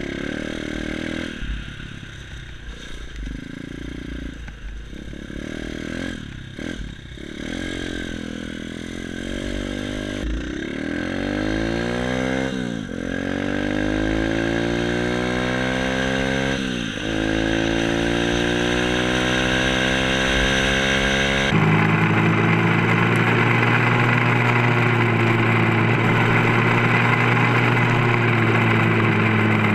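Small 140cc dirt bike engine under way: at first lower and choppy with knocks and rattles over rough ground, then revving up through the gears, its pitch climbing and dropping at each of two shifts. A bit over two-thirds in it changes suddenly to a steady, even engine note at speed.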